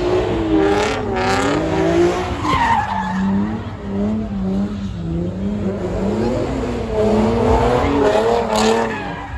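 Car tyres squealing in a continuous, wavering screech as a car slides sideways in a drift, with engine noise underneath.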